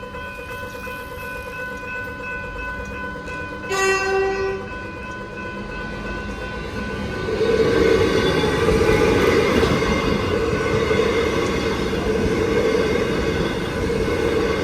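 A level crossing's electronic bell rings steadily. About four seconds in, a train horn gives one short blast, and from about seven seconds a train passes over the crossing with loud wheel and rail noise.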